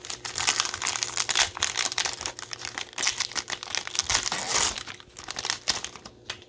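Cellophane wrapping on Mosaic Football cello card packs crinkling and tearing as it is handled and ripped open, a dense irregular crackle that thins out near the end.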